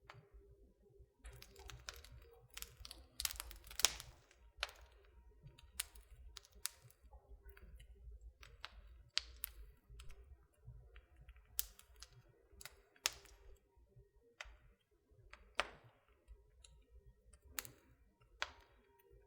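Wood fire in a fireplace crackling: irregular sharp pops and snaps, a cluster of louder ones about four seconds in, over a faint low rumble.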